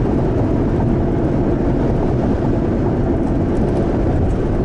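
Steady low rumbling noise of strong storm wind and heavy rain.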